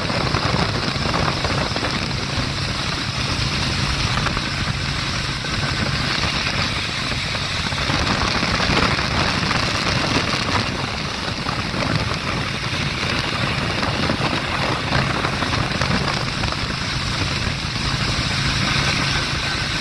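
Harley-Davidson Road Glide Special's Milwaukee-Eight V-twin engine running steadily.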